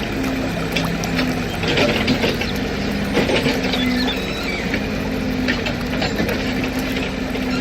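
Toy excavator's mechanism clicking and whirring, with scattered small scrapes, over a low steady drone.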